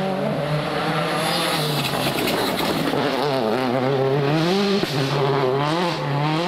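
Rally car engine at full race speed, its note rising and falling as the driver accelerates, lifts and changes gear, with a sharp dip about five seconds in.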